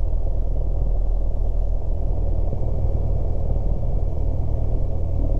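Cessna 172S's four-cylinder Lycoming piston engine and propeller running steadily, a constant low drone heard through the cockpit intercom feed.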